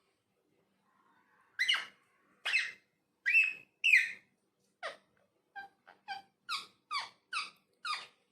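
Ringneck parakeet giving a series of short, sharp squeaky calls: four loud ones in the first half, then a quicker run of shorter, softer calls.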